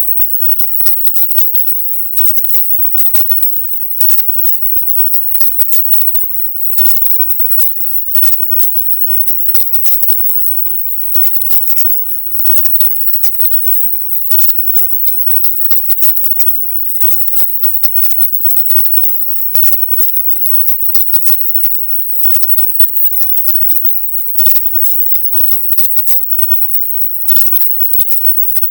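Silent subliminal audio: a high-pitched hiss sitting near the top of the hearing range, chopped into rapid, irregular stutters with crackly flickers across the whole range and brief dropouts. This is the kind of very high, frequency-shifted layer used to hide spoken affirmations.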